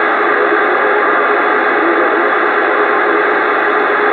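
CB radio receiver hissing with steady open-channel static through its speaker between transmissions, a faint steady tone or two under the hiss.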